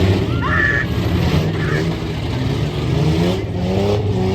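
Several truck engines running and revving together in a race heat, their pitch rising and falling. A brief high squeal comes about half a second in.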